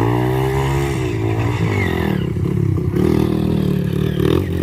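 Dirt bike engine revving: the pitch climbs and falls back in the first second and a half, then the engine runs on uneven, choppy throttle.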